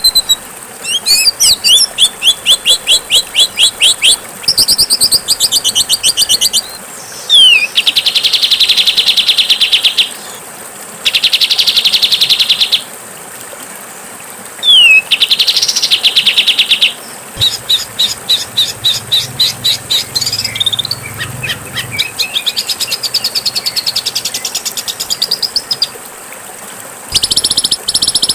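Songbird song of harsh, rough material: bursts of fast trills and rapid repeated chattering notes, each a second or two long, with short pauses between them and an occasional quick sweeping whistle.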